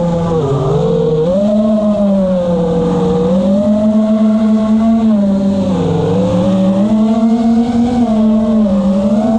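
Whine of an FPV quadcopter's brushless motors and tri-blade propellers, the pitch dipping and rising again as the throttle is eased and opened, about half a second in and again around six seconds.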